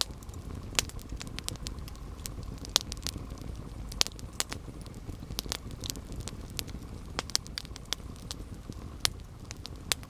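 Campfire burning: wood crackling and popping in sharp, irregular snaps over a low, steady rumble of flame.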